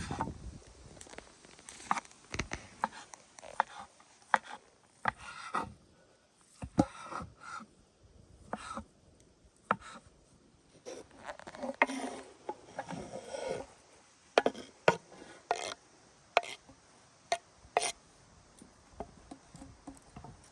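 Knife dicing sausage on a cutting board: irregular sharp knocks of the blade on the board, roughly one or two a second, with some scraping between them.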